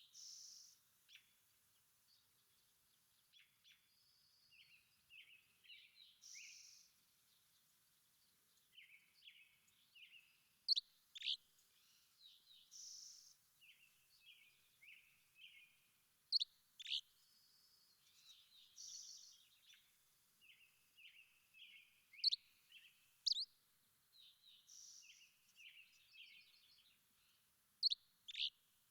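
Songbirds singing: a phrase of sharp, high downward-slurred notes, a buzzy note and a quick run of lower chirps, repeated about every six seconds.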